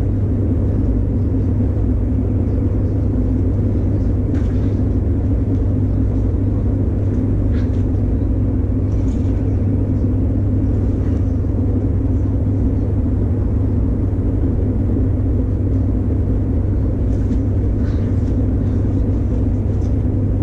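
A steady low rumble with a constant hum, unchanging throughout, with a few faint clicks on top.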